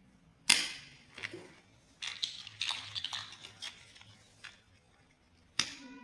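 Plastic building blocks clicking and clattering against each other: one sharp click about half a second in, a run of small clicks from about two seconds in, and another sharp click near the end.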